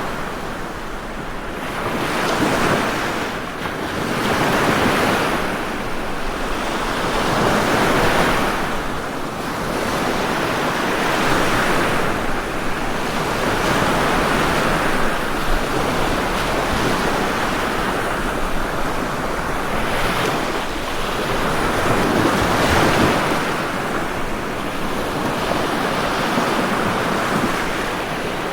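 Ocean waves washing onto a shore, a continuous surf hiss that swells and ebbs every few seconds.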